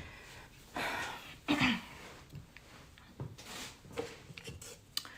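A person's breaths and a brief throat sound: a few short breathy exhalations, the clearest about a second in, with a faint click or two of small handling noise.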